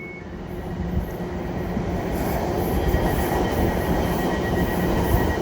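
Class 720 electric multiple unit running through the station without stopping. The rumble of its wheels on the rails builds steadily louder, with a thin steady high tone over it.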